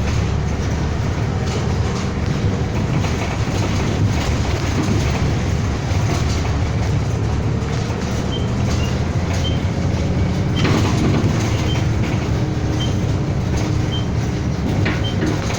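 City bus running between stops, heard from inside: a steady engine and road rumble. From about halfway a short high beep repeats roughly every half second, and there is a single knock about two-thirds of the way through.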